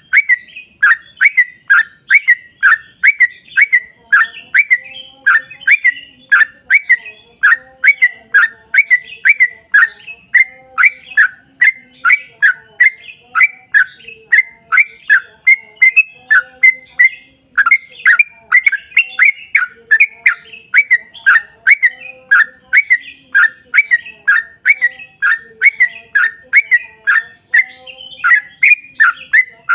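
Yellow-vented bulbul (trucuk) singing a long unbroken run of quick chirping notes, about two a second: the long 'ropel' song used as a lure call to set other bulbuls singing.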